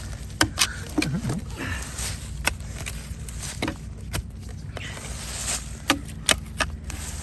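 Shovel digging into packed dirt around a buried engine, with irregular sharp scrapes and knocks from the blade.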